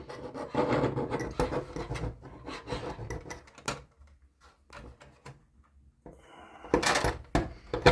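Hands rubbing, scraping and clicking plastic model railroad track and kit parts while working track into its glued grooves. The handling goes quiet about four seconds in, then picks up louder near the end.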